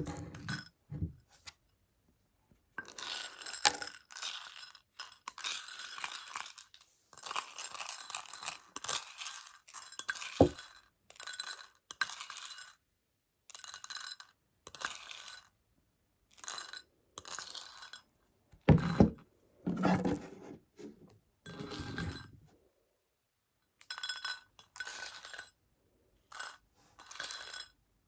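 Tapping and scratching on a large plastic container of Choco Baby candies, the tiny chocolate pellets rattling and clinking inside, in short bursts with pauses. A few duller, heavier knocks come around two-thirds of the way through.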